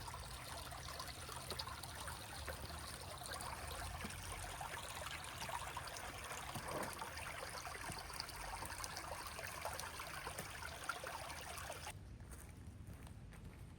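River water flowing in a steady rush with many small splashes and trickles. About twelve seconds in it drops abruptly to a much quieter background.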